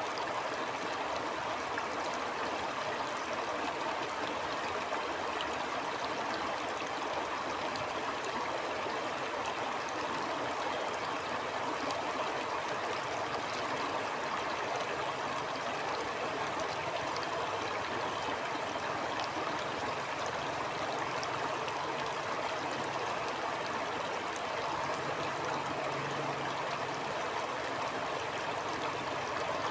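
Stream flowing steadily: an even, constant rush of water with fine trickling splashes through it.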